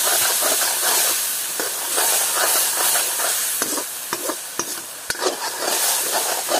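Chicken curry sizzling in a large iron wok (kadai) while a steel ladle stirs it, scraping and clinking against the pan, with a few sharp clinks in the second half.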